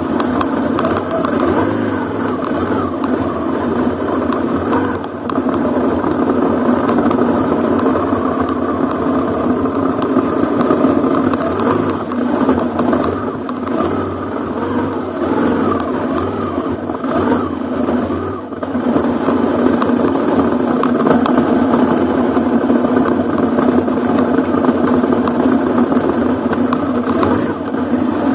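Ducati Hypermotard's V-twin engine running at low speed on a rough dirt track. It eases off briefly about five seconds in and again about two-thirds of the way through.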